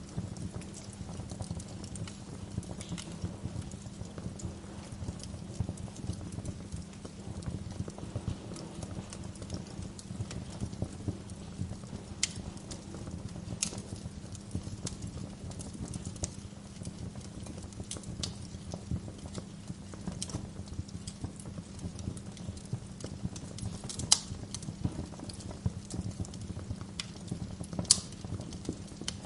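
Wood fire crackling in a fireplace: a dense, steady run of small crackles with sharper, louder pops every few seconds, the strongest two in the second half.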